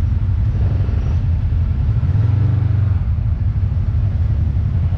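Kawasaki KRX side-by-side's engine running at low speed: a steady low drone that swells briefly around the middle.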